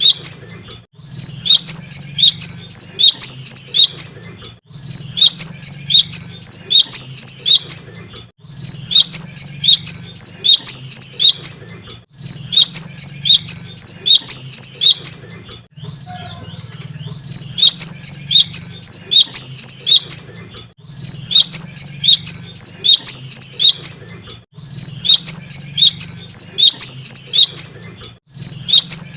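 Cinereous tit (gelatik batu) singing loudly: phrases of rapid high chirping notes, each about three seconds long, repeating with short gaps, with a longer pause about halfway through.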